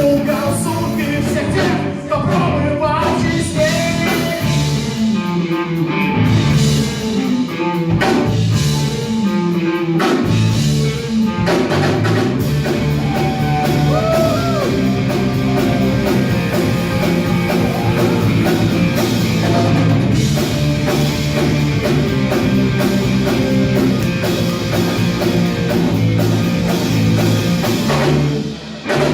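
Rock band playing live: drum kit and electric guitars, with some singing or vocal lines over an instrumental passage.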